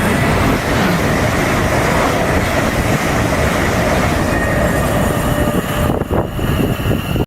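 Train passing close by, a loud, steady rush of wheels on rail and air that cuts off suddenly at the end.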